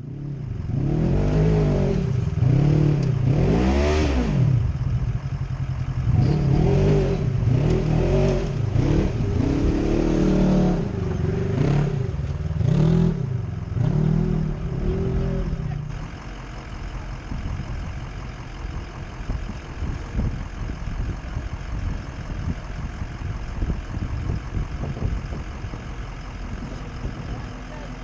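A vehicle engine revving up and down in repeated swells, one every second or two, loud through the first half. About sixteen seconds in it settles to a quieter, steady running.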